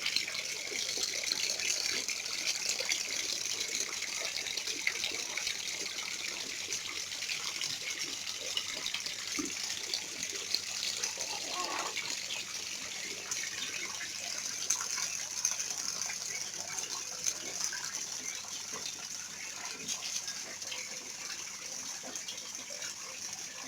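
Steady rush of splashing, falling water.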